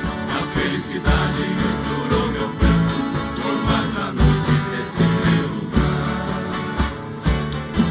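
Live instrumental Brazilian country music: an ensemble of acoustic guitars strumming and plucking a steady rhythmic accompaniment.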